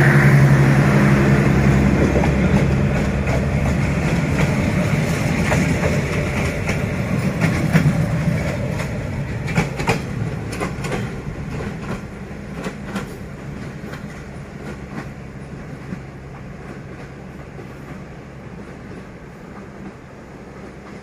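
D19E diesel-electric locomotive passing with its engine running loud, followed by the carriages' wheels clicking over rail joints in quick groups of knocks. The whole train sound fades steadily as it moves away.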